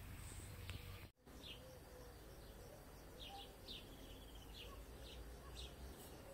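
Faint birdsong: short high chirps, repeated every half second to a second, over quiet outdoor background noise. A brief dropout to silence comes about a second in.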